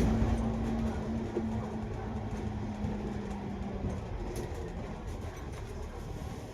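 Cabin noise of a double-decker bus on the move: a low rumble with a steady engine-and-drivetrain drone. The drone fades out about four seconds in and the overall noise eases down.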